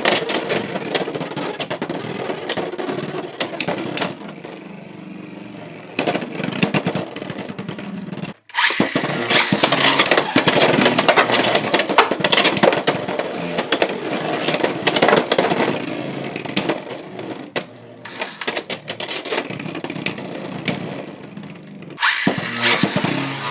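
Beyblade X tops, Fox Brush J9-70GR against Impact Drake 4-60R, spinning and clashing in a plastic stadium: a steady whir and scrape broken by many sharp clacks as they hit. The sound cuts out about eight seconds in, then starts again suddenly as another battle begins, and shifts once more near the end.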